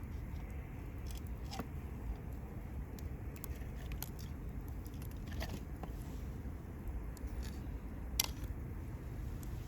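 Wood campfire burning: a steady low rumble with scattered sharp crackles and pops, the loudest about eight seconds in.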